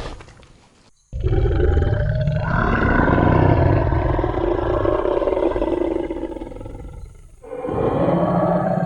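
Tyrannosaurus rex roar sound effect: a roar fading out in the first second, a brief silence, then one long deep roar of about six seconds that dies away, and another roar starting near the end.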